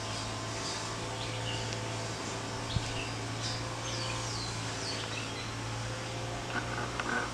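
Small birds chirping in short, falling calls over a steady low hum, with a single sharp click about three seconds in.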